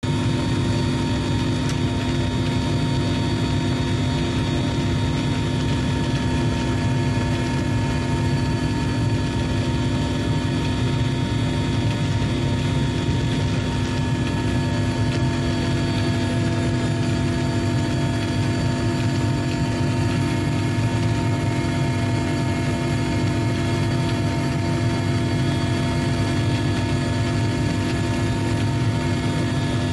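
Steady engine drone with several constant tones, unchanging in level and pitch throughout.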